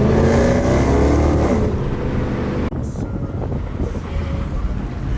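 Performance car accelerating hard at a launch, its engine note climbing in pitch for about a second and a half, then dropping off abruptly to a rough low rumble with wind noise.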